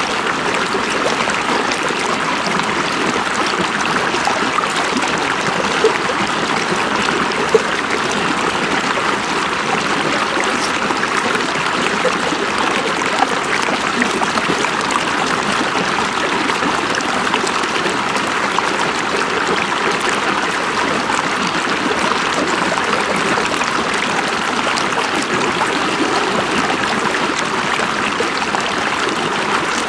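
River water running steadily over rocks, an even rushing with a few small splashes.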